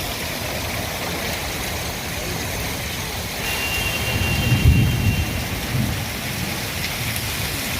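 Heavy rain pouring down steadily. About halfway through, a low rumble swells up, peaks and fades out.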